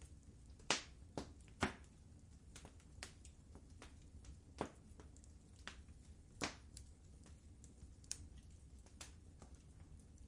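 Wood fire in a fireplace crackling: irregular sharp pops and snaps over a low steady rumble of the flames, the loudest pops just under a second in, again about a second later, and about six seconds in.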